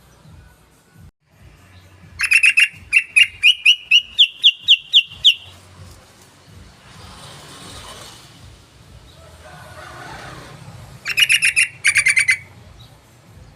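Yellow-vented bulbul (trucukan) song: a quick run of about a dozen sharp notes climbing in pitch, then a second, shorter burst of about eight notes near the end.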